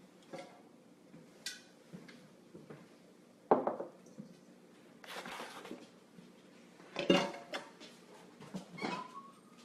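Kitchen dishes and utensils clinking and clattering in a few separate, irregular knocks. The two loudest come about three and a half seconds in and again around seven seconds.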